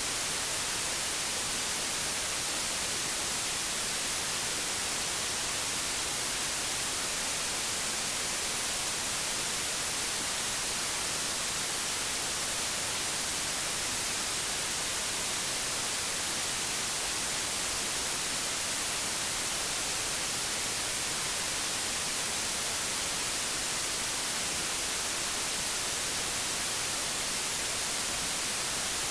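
Television static: a steady, unchanging hiss, bright and strongest in the highs.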